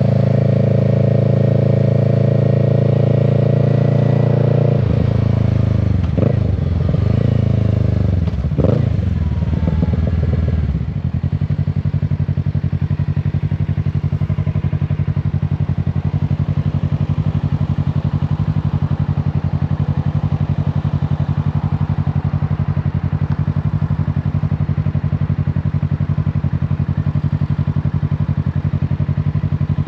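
Kawasaki Z650's parallel-twin engine running at a steady speed. For several seconds the pitch then falls and rises as the bike slows and shifts down, and about eleven seconds in it settles into a steady, slightly quieter idle.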